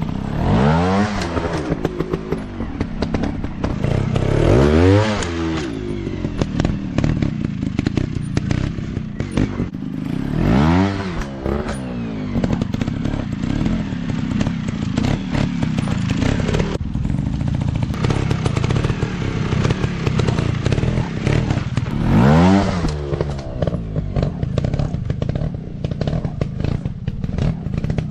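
Off-road dirt bike engines running, their revs sweeping up and back down about four times, over a steady engine rumble with clattering.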